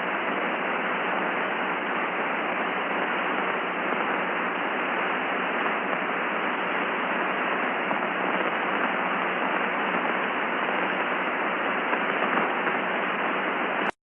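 Steady hiss of static on an open radio channel, with no voice on it, cutting off abruptly near the end.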